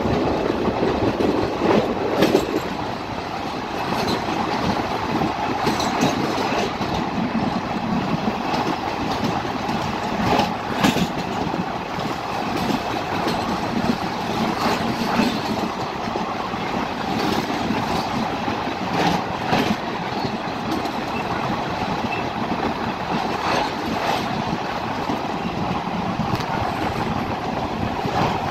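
A passenger train's wheels running over a steel railway bridge, heard from an open door of the moving coach: a steady rumble and rush with sharp clacks over rail joints every few seconds.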